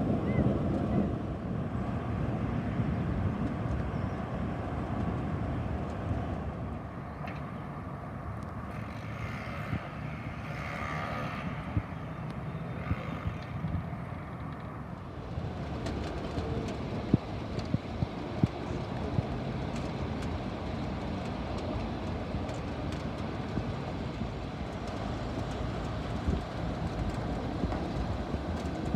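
Low steady rumble of city traffic on a rainy street, with one vehicle passing loudest in the middle and a few sharp taps a little later.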